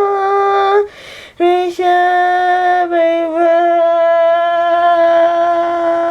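A woman's voice holding long, steady sung notes, broken by a quick breath about a second in.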